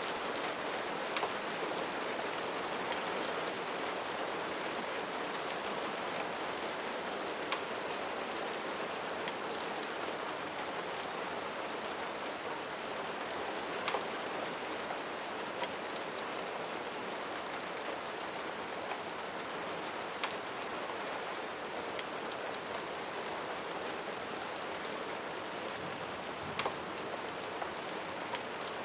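Steady rain falling on a surface, an even hiss with a few sharp clicks scattered through it.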